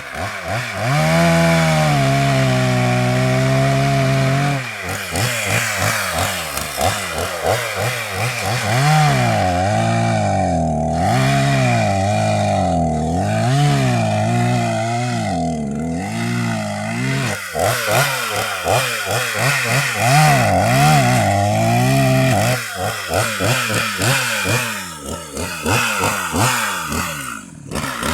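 Chainsaw cutting a storm-felled tree into firewood. The revs jump up right at the start and hold high for a few seconds, then repeatedly dip and recover as the chain bites into the wood. They run lower and rougher over the last several seconds.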